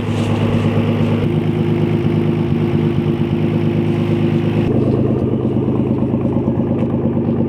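Car engine idling steadily at a constant pitch. Its tone changes abruptly about two-thirds of the way through.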